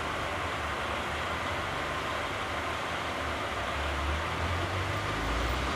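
Renault Sandero engine idling, with the electric radiator cooling fan running as a steady whirring rush. The fan has cut in once the engine reached temperature, and the low hum swells a little near the end.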